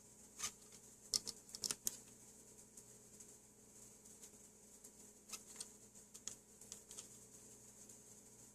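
Light, sharp clicks and taps of small objects being handled, bunched about a second in and again from about five to seven seconds in, over a faint steady hum.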